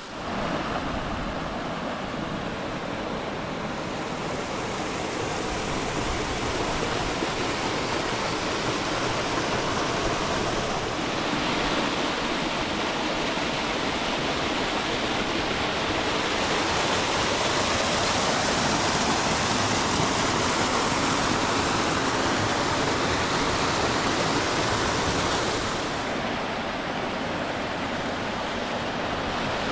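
Rushing water of a moorland stream pouring into a rock pool in a gorge, a steady full rush that swells a little past the middle and then eases.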